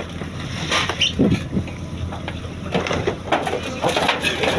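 Fishing boat's engine running under irregular knocks and clatter of work on deck.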